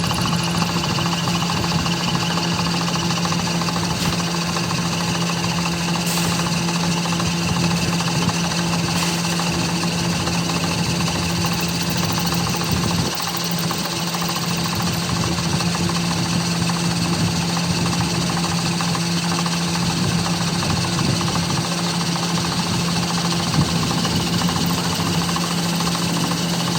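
A machine running steadily with a constant low hum, dipping briefly about thirteen seconds in.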